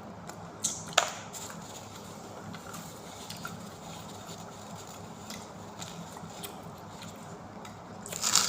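Eating and food-handling sounds: scattered soft clicks and smacks over a steady low hum, with two sharper clicks about a second in and a louder burst of clatter near the end.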